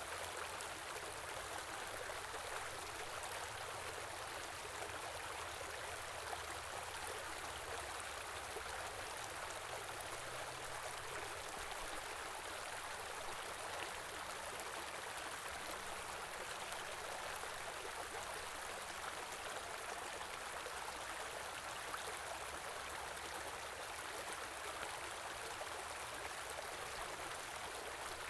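Steady rushing and babbling of a small stream flowing over stones in winter.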